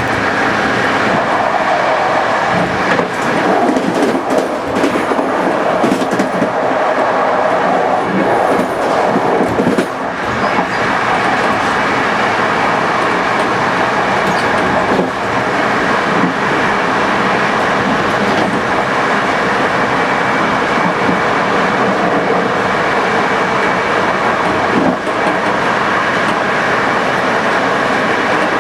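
Passenger train running at speed on the rails, heard from on board: a steady rolling rumble of wheels on track, with a short run of clicks and knocks in the first third.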